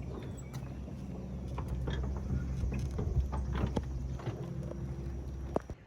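A motor running with a steady low hum, with scattered knocks over it; it all cuts off abruptly near the end.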